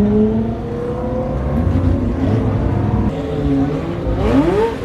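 A car engine pulling away, its pitch climbing slowly, then a quick sharp rev rising steeply shortly before the end.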